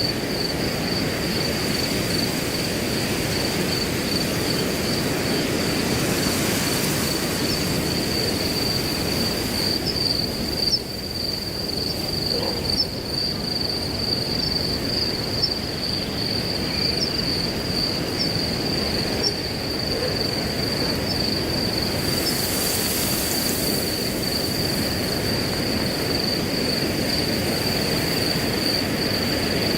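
Crickets trilling without a break, a steady pulsing high note, over the rushing hiss of wind through grass. The wind swells briefly twice, and a few short high chirps come through in the middle.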